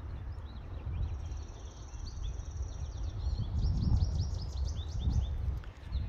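Several songbirds singing: many quick repeated chirps, with one high, even trill held for about two seconds early on, over a low uneven rumble.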